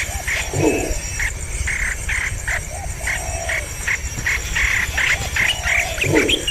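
Birds calling outdoors: short chirps repeating about twice a second, mixed with a few lower arching calls and two deeper swelling calls, over a steady high pulsing insect drone.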